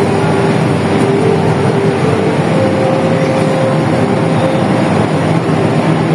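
Passenger train running through the station at close range: a steady, loud rumble of wheels on rail, with thin held tones that shift in pitch now and then.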